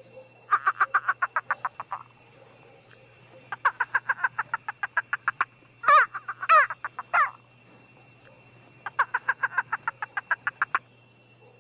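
An animal calling in three bouts of rapid croaking pulses, about eight a second and each lasting one to two seconds, with two louder rising-and-falling calls about six seconds in.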